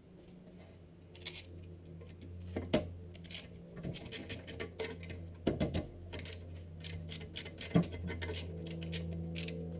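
Old Ford Escort engine running out of the car, a steady low hum that grows slightly louder, with scattered sharp pops and metallic clicks, loudest about a third of the way in and near the end. The engine runs rich and backfires whenever the throttle closes.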